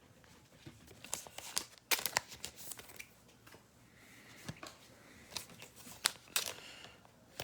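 Trading cards and a foil card-pack wrapper being handled: quick rustles, crinkles and sharp card clicks in two clusters, about a second in and again around five to six seconds in.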